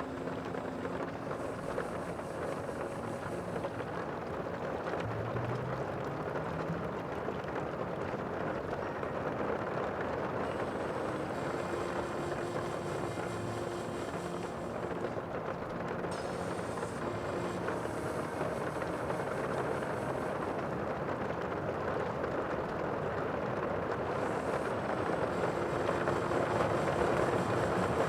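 Steady sea ambience: a continuous rushing wash of noise that grows slightly louder near the end.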